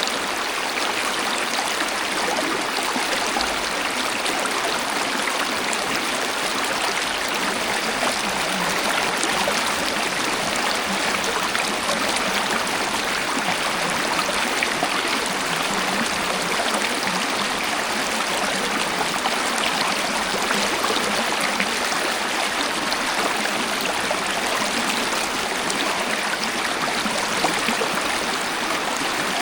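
Natural waterfall: a steady, unbroken rush of flowing water with no pauses or changes.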